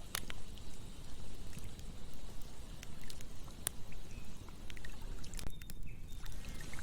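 Campfire crackling, with scattered sharp pops over the steady rush of a flowing stream or river.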